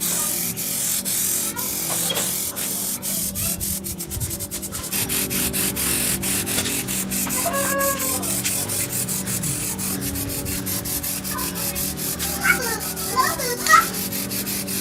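Sanding on an old motorcycle's metal parts during restoration: a continuous, rapid rasping scrape over a steady low hum. Short pitched sounds break in around the middle and near the end.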